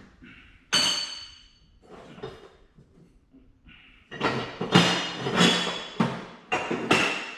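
Pieces of steel pipe clanking and ringing as they are handled and knocked together: one sharp clang about a second in, then a run of clanks from about four seconds in.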